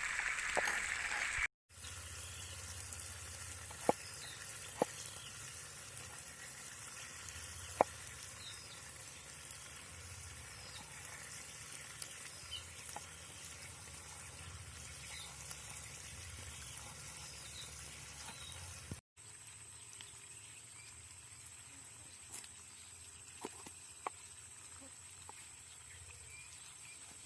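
Beef steak frying in a pan: a steady sizzle with scattered sharp pops. The sound cuts off abruptly twice, and each time it comes back quieter.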